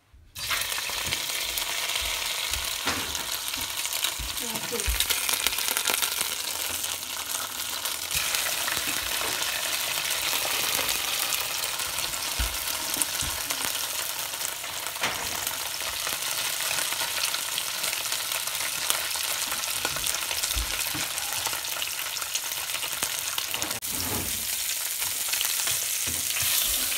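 Pieces of eel frying in hot oil in a frying pan: a loud, steady sizzle that sets off suddenly as they go into the pan, with scattered small crackles and pops throughout.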